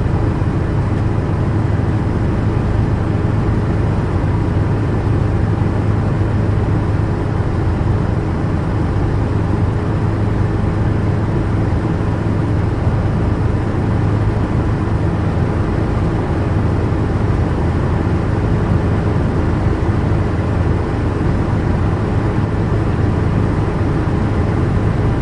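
Remote-control toy helicopter's motor and rotors running steadily: a constant, unbroken hum with noise over it.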